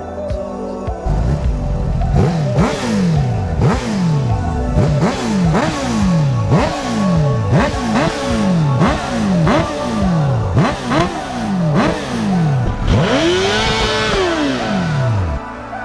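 Sport motorcycle engine revving again and again, about once a second, each rev rising quickly and dying away, with a longer rise and fall near the end. Background music plays underneath.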